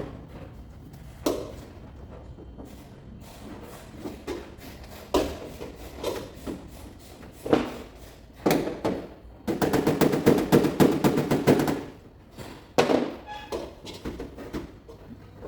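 Scattered single knocks, then a fast run of taps lasting about two seconds, then a couple more knocks.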